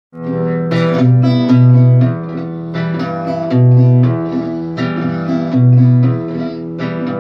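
Instrumental introduction of a song: guitar chords strummed and plucked in a steady rhythm over held low bass notes.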